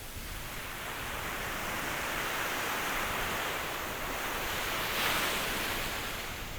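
Ocean waves breaking on a shore: a rushing swell builds, peaks about five seconds in with a hiss of surf, then washes back and fades.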